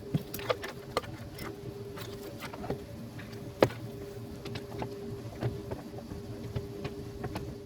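Irregular metallic clicks and taps of hand tools working on a starter solenoid, one sharper knock about three and a half seconds in, over a steady faint hum.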